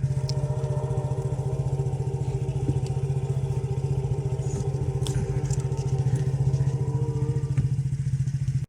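Nissan Serena's 2.5-litre four-cylinder engine running at a steady idle, a fast, even low pulsing.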